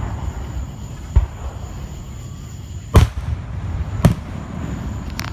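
Fireworks exploding: three sharp booms about a second apart, the middle one the loudest, over a low rumble, with a short crackle near the end.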